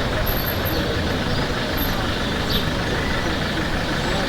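Steady urban street ambience: a constant low rumble of traffic or an idling vehicle engine, with no distinct single events.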